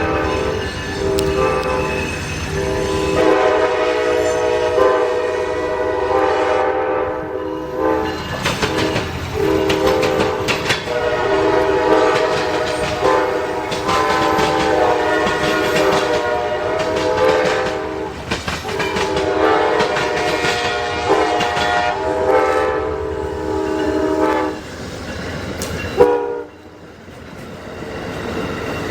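A diesel locomotive's air horn sounds a chord of several notes in a series of long blasts with short breaks, over the running noise of the train. Near the end the horn stops abruptly with a click, leaving quieter train noise.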